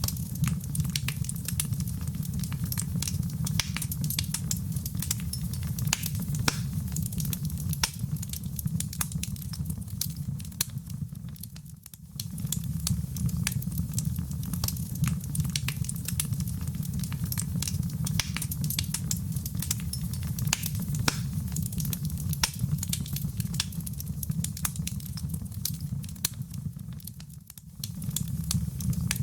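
Wood fire in a fireplace crackling, with many sharp pops over a steady low rumble. The sound fades briefly twice, about twelve seconds in and near the end.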